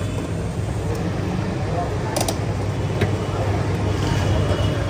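Steady low rumble of a vehicle engine running, with a brief sharp clatter about two seconds in and a tick a second later.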